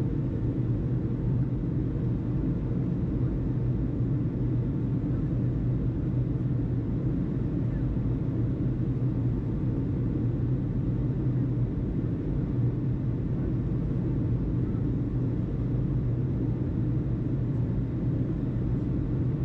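Steady low rumble with a constant hum, the background noise under an airport tower radio feed between transmissions; even and unchanging throughout.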